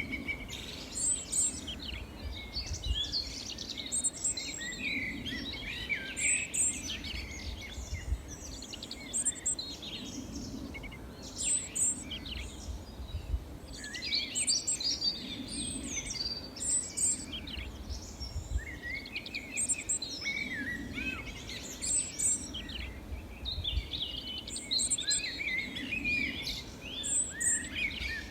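Several small songbirds chirping and twittering, with short high calls repeating every second or two and busier bursts of song, over a steady low rumble.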